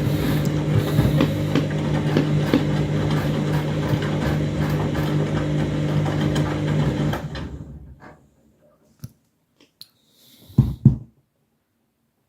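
Washing machine motor running steadily on an intermediate spin, then winding down and stopping about seven seconds in. A few faint clicks follow, then two short thuds near the end.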